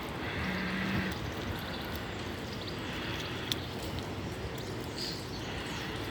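Steady outdoor background noise with a few faint clicks, and no single source standing out.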